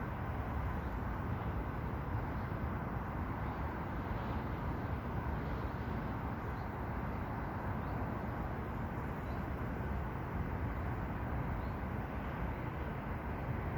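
Steady outdoor background rumble, strongest in the low range, with a few faint high chirps.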